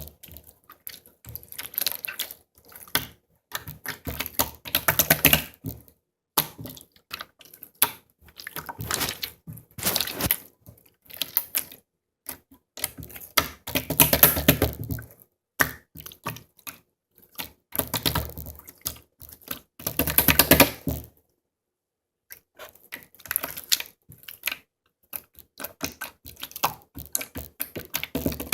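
Slime being squished and stretched by hand, making dense runs of small clicking and popping sounds in spells of a second or two with short pauses between.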